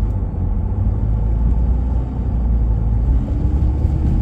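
Steady low rumble of a vehicle's engine and tyres on the road, heard from inside the cabin while driving, with a faint engine note rising slightly near the end.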